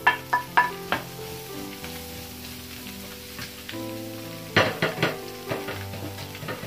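Wooden spatula tapping several times against the plate and pan as chopped onion and garlic are scraped into a stainless Saladmaster electric skillet, over pork sizzling in its own rendered fat. A short burst of clicks and crackles comes about two-thirds of the way through.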